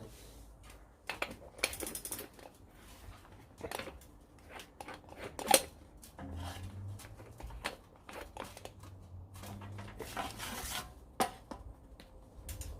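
Scattered clicks, light knocks and short rustling scrapes of things being handled, with one sharp click about five and a half seconds in.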